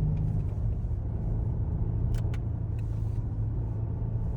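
Engine and road noise inside a moving car's cabin: a steady low drone, with two faint clicks a little after two seconds in.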